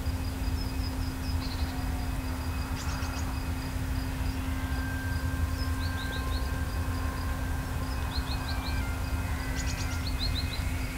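Small birds giving short bursts of three or four quick, high chirps, several times over, above a faint steady high insect tone and a constant low rumble of wind.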